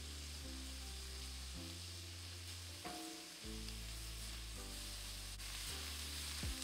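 Shrimp and scrambled eggs sizzling in oil in a hot nonstick wok, stirred with a silicone spatula, under soft background music with steady low notes.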